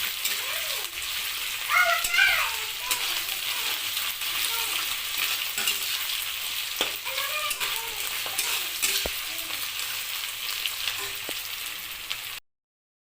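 Food sizzling in a hot pan as it is stirred, with spatula scrapes and a few sharp clinks against the pan. The sound cuts off suddenly near the end.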